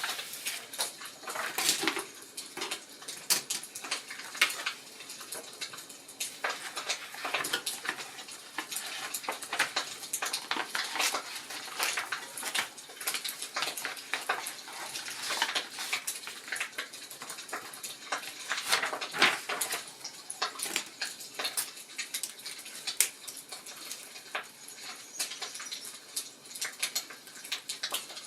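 Wood fire crackling in a fireplace: dense, irregular snaps and pops over a soft hiss.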